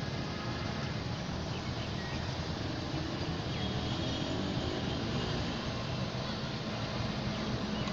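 Goods train running on the track: a steady low rumble with no breaks, and a few faint bird chirps above it.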